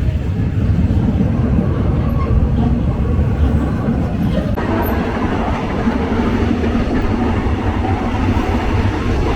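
Passenger train running along the track: a steady, loud rumble of wheels on rails, which gets brighter and harsher about halfway through.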